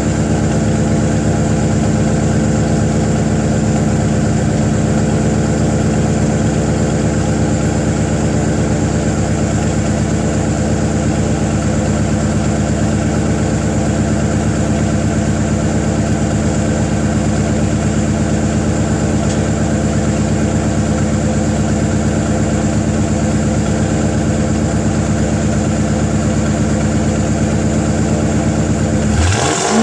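Supercharged Ford 4.6-litre V8 in a 2005 Mercury Grand Marquis, running catless through stock log manifolds into a 3-inch stainless exhaust, idling steadily. Right at the end the revs start to climb.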